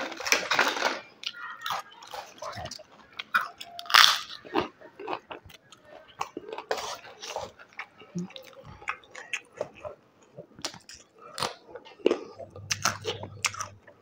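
A person eating close to the microphone: repeated crisp crunching bites and chewing of crunchy food. The loudest crunches come in the first second and about four seconds in.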